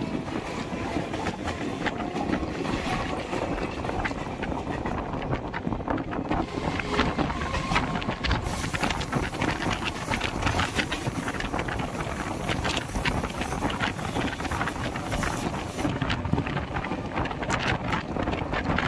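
Indian Railways express trains passing at speed: coaches rolling by close to the microphone, with a rapid run of wheel clicks over rail joints and points. A brighter hiss joins from about eight and a half seconds in to about sixteen seconds in, and wind buffets the microphone.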